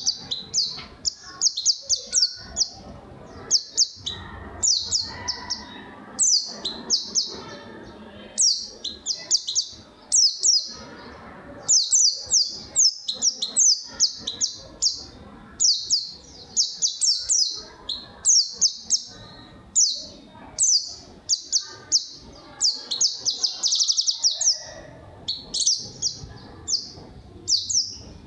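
A small songbird, which the uploader takes for a white-eye (pleci), singing quick, high chirping phrases over and over with short pauses between them. A faint low murmur runs underneath.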